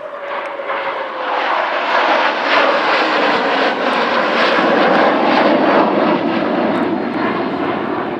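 F-16C Fighting Falcon with its Pratt & Whitney jet engine flying past at less than full thrust, without afterburner. A falling tone near the start gives way to a wide rushing jet noise that grows to its loudest about five seconds in, then eases off.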